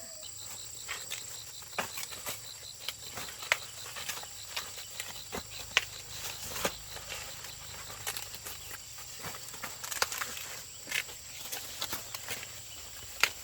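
Scattered light knocks and scuffs, irregular and a few per second, over a steady high-pitched insect drone.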